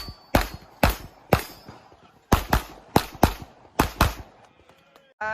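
Handgun fired rapidly in an IPSC stage, about ten sharp shots over the first four seconds, mostly in quick pairs a fifth of a second apart, as the shooter engages targets with two rounds each.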